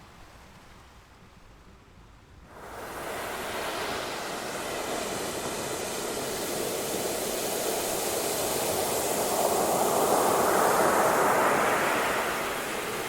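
Ocean surf. After a faint hiss, the sound of waves comes in abruptly and swells into a wave breaking, rising to its loudest near the end before easing off.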